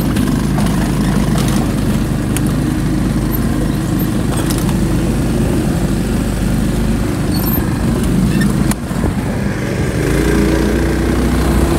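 A motor vehicle's engine running steadily while driving, with a brief drop near the end before it picks up again.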